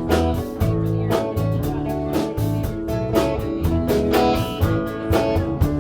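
A band playing an instrumental passage: guitar over a bass line and a steady drum beat.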